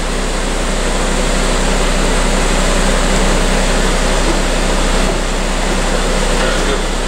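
Audi car engine idling steadily.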